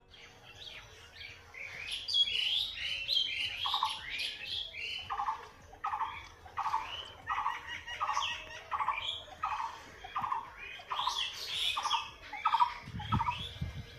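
Birds calling in a rapid, repeated series of short chirps, about one or two calls a second, each with high falling notes over a lower note. A low rumble comes in near the end.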